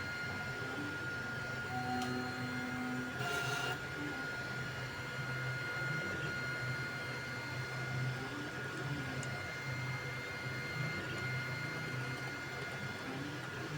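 Creality Ender 3 V3 3D printer running a print: its stepper motors whine in short rising and falling glides as the head moves, over a steady hum. A brief hiss about three seconds in.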